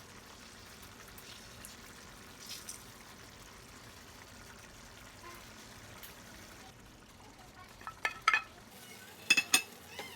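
Fish frying in a pan with a steady sizzle. A few sharp clinks of a utensil against the pan come near the end.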